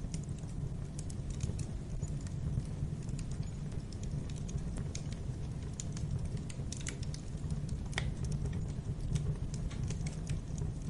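Wood fire crackling in a fireplace: irregular small pops and snaps over a steady low rumble of the flames, with a couple of louder pops about two-thirds of the way through.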